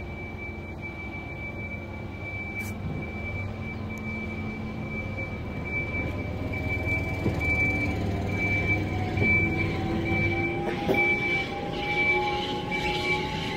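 Passenger train cars rolling slowly on rails, pushed by a battery-electric rail car mover: a low rolling rumble with a whine that rises in pitch and grows louder over the second half. A high beep repeats about once a second throughout.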